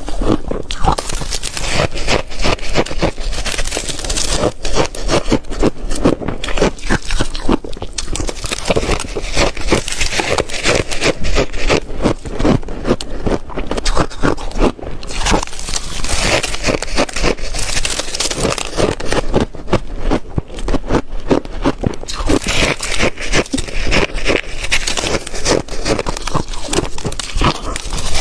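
Ice being crunched and chewed with the teeth close to the microphone: a dense, unbroken run of crisp crunches and cracks.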